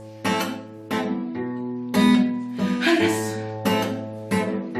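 Acoustic guitar strumming chords, about one stroke every half second, each chord left ringing: an instrumental passage between sung verses.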